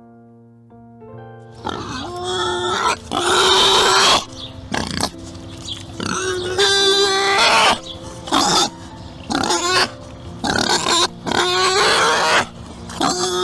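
Pig calling: a run of loud, harsh calls, each about half a second to a second long, starting about a second and a half in, over steady background keyboard music that plays alone before the calls begin.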